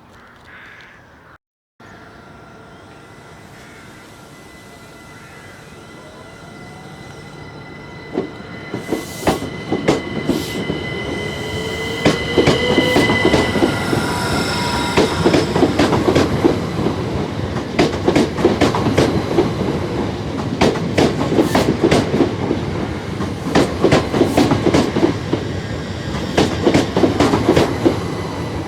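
Passenger train approaching and running through the station. The sound builds over the first third with a rising whine and high steady tones, then becomes a steady rhythmic clatter of wheels over rail joints.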